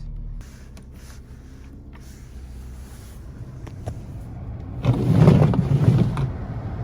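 2018 Mercedes-Benz GLA 250's turbocharged four-cylinder engine idling steadily on a cold start. About five seconds in, a louder rushing noise lasts a little over a second.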